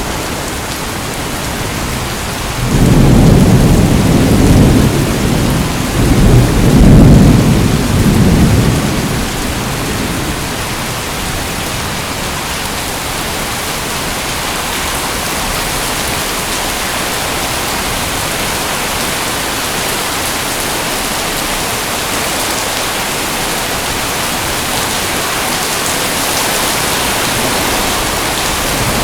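Steady heavy rain with two rolls of thunder, one starting about three seconds in and the next about six seconds in, each rumbling low for a couple of seconds before the rain carries on alone.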